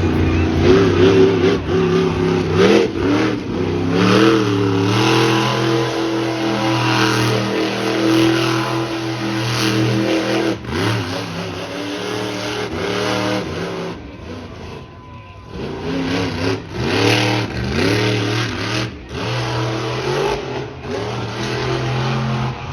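Monster truck engine revving hard, its pitch rising and falling over and over, with a brief easing-off about two-thirds of the way through before it revs up again.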